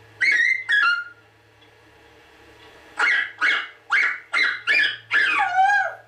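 Pet talking bird calling loudly: two short calls near the start, then a run of six quick calls from about three seconds in, the last one longer and sliding down in pitch.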